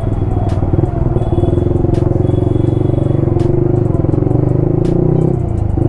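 Yamaha R15 V3's single-cylinder engine running steadily at part throttle while riding. The engine note dips briefly near the end.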